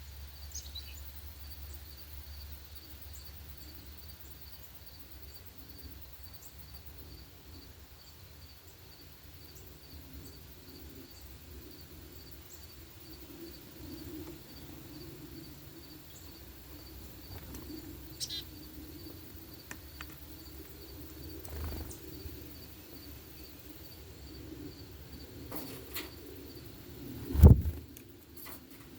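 Outdoor ambience: a steady, pulsing high insect trill runs throughout, with a few brief bird chirps scattered across it. A single loud low thump comes near the end.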